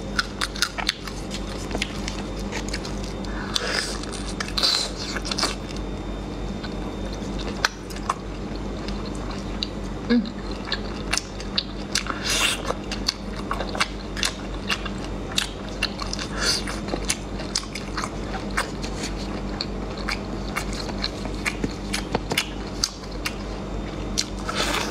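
Close-up mouth sounds of biting and chewing snail meat: a steady run of small clicks and smacks, with a few louder bursts.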